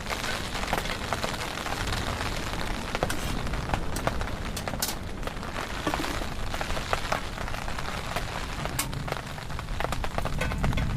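Heavy rain falling steadily: a constant hiss dotted with many sharp drop impacts.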